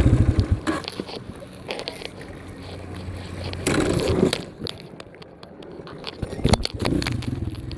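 Dirt bike engine running, then dying about half a second in. Scraping, crunching and clicking of the bike rolling on dirt follow while it is being bump-started. The engine fires again near the end.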